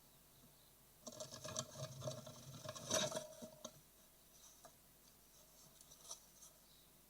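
Great tit nestlings scrabbling inside a wooden nest box: claws scratching and rustling on the wood with sharp knocks, starting about a second in and loudest about three seconds in, then a few faint scratches.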